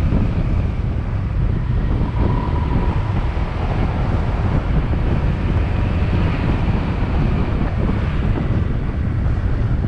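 Wind buffeting the microphone on a moving motorbike, with the bike's engine running underneath.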